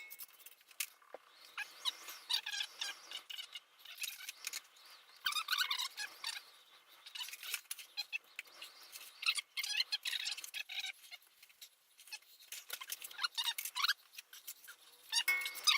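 Irregular light scraping, squeaking and clicking of hand work with tools, in uneven spurts.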